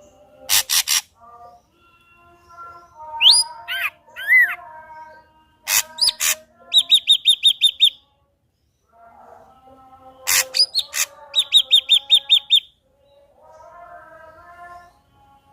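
Ashy drongo singing a varied song. It mixes short harsh noisy bursts, rapid runs of high, evenly repeated notes at about seven a second, rising whistled glides, and softer warbling phrases in between.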